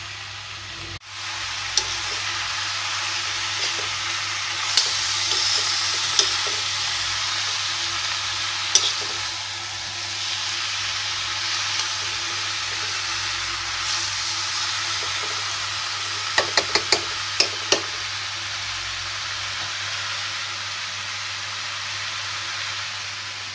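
Pumpkin pieces sizzling in a hot kadai while a spatula stirs them, a steady frying hiss broken by sharp clicks of the spatula against the pan, with a quick run of several clicks in the latter part.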